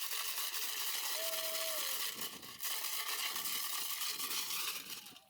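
Outdoor rural ambience: a steady, dense high-pitched chirping hiss, with one short held whistle-like note about a second in, fading out near the end.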